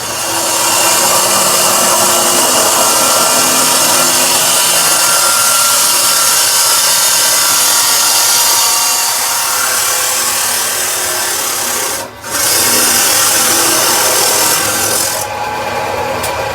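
Power tool grinding metal: a loud, steady, harsh hiss with a whine under it. It breaks off for a moment about twelve seconds in, picks up again, then eases near the end.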